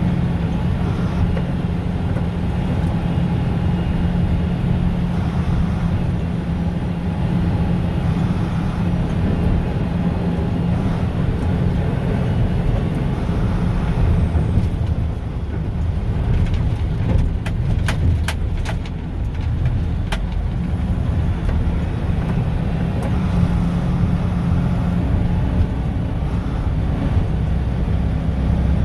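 Mack plow truck's diesel engine droning steadily, heard from inside the cab while driving. A handful of sharp clicks come about halfway through.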